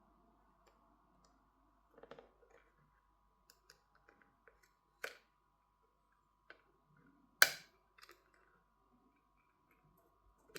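Scattered small clicks and taps of tools on the plastic and metal parts of a Motorola G60 phone being taken apart, as the protection tray over the motherboard and cameras is pried off. One sharp click about seven seconds in is the loudest, with another about five seconds in.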